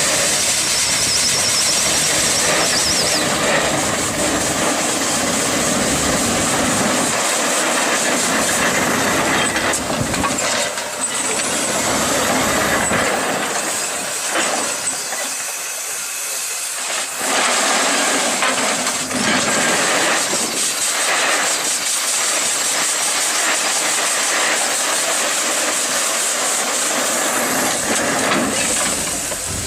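Steam shovel working, with loud hissing steam over a mechanical rumble. The low rumble drops away about halfway through, then returns a few seconds later.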